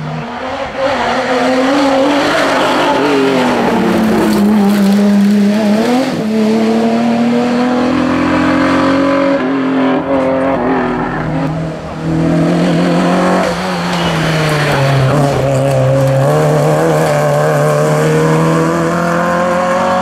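Historic rally car engine at full race effort on a stage, revving up and dropping back again and again through the gears and corners, with tyres squealing on the tarmac.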